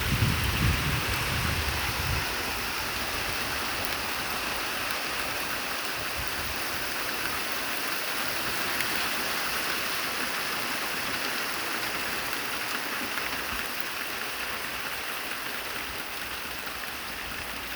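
Heavy rain pouring down in a steady, even hiss. A low rumble underneath fades out about two seconds in.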